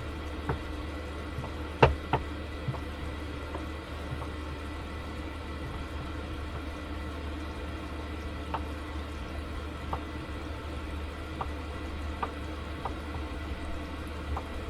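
Steady low hum with scattered small clicks and light knocks, the sharpest a double knock about two seconds in.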